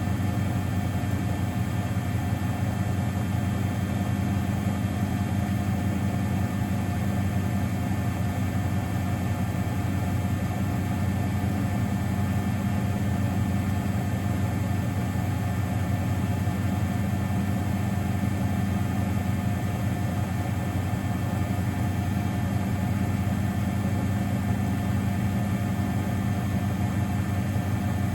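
Miele Novotronic W921 washing machine running, a steady motor hum that holds unchanged throughout.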